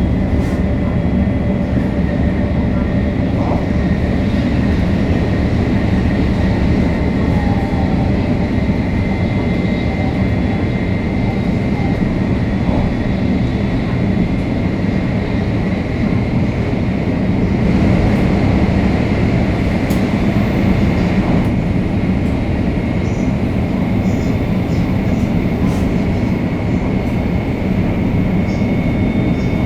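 Shinkansen 500 series train running, heard on board: a steady rumble of wheels on rail under the whine of its Toshiba GTO-VVVF inverter and traction motors, a high tone that rises slightly near the end.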